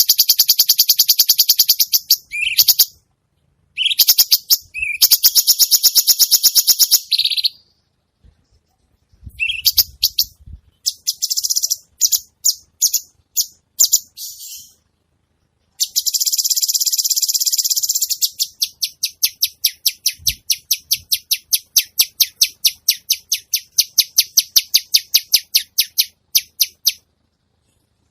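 Recorded songbird calls: several bouts of very fast, high-pitched, rattling trills, the harsh 'kasaran' type of call used to train competition songbirds, broken by short pauses and scattered short notes. In the second half one long trill is followed by a run of separate sharp chips at about three a second.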